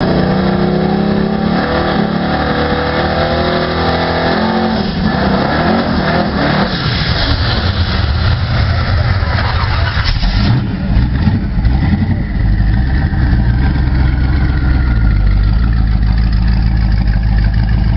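Twin-turbo Chevrolet S-10's engine running loud. It holds a steady note for the first four seconds or so, its pitch slides up and down a few seconds later, then it settles into a low, steady rumble for the second half.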